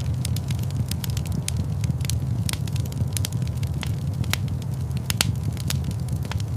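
Wood fire crackling in a fireplace, with frequent irregular sharp snaps over a steady low rumble.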